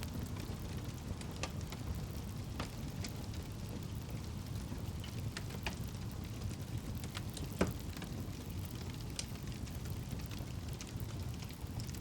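Campfire burning: a steady low rumble of flames with scattered sharp crackles and pops, one louder pop about two thirds of the way in.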